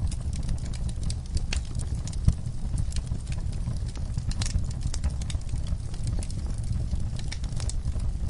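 Wood logs burning in an outdoor fireplace, with irregular sharp crackles and pops over a steady low rumble; one louder pop a little over two seconds in.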